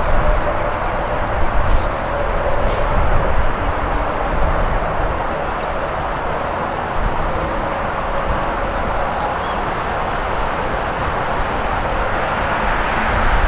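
Long Island Rail Road M-3 electric multiple-unit train, ten cars, rolling past close by with a steady rush of wheel and track noise.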